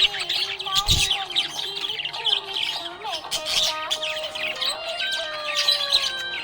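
Budgerigars chirping and chattering in quick, busy bursts, over background music with long held notes. A short low thump comes about a second in.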